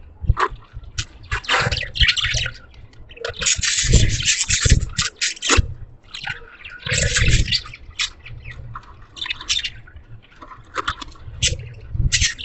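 Budgies chattering: scratchy, warbling chirps in bursts, densest about four seconds in and again near seven seconds, with low thuds mixed in.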